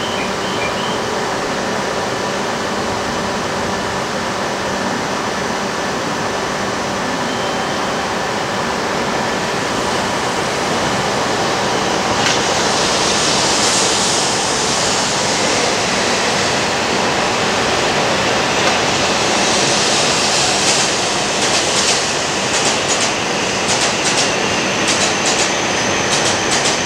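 Shinkansen train moving along a platform track, over a steady platform hum. About halfway through a rushing hiss swells, and in the last several seconds the wheels click quickly over rail joints.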